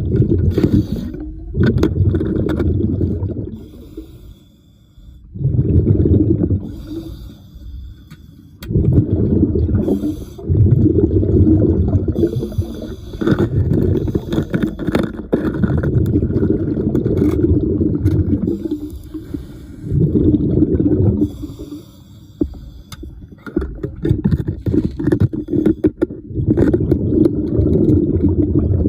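A diver breathing underwater through a regulator. Each exhalation is a burst of rumbling bubbles lasting one to three seconds, about ten in a row with short pauses for inhaling between them.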